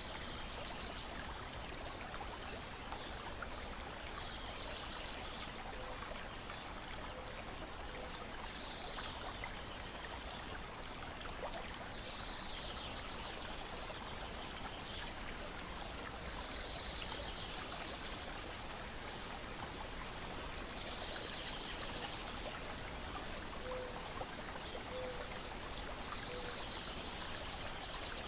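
Lake water lapping steadily against a shore and deck. A bird's short trilling call repeats every few seconds over it.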